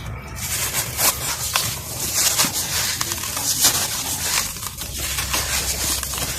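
Brittle, dusty molded material crumbling and crunching. A dense crackle with many sharp cracks starts about half a second in and carries on.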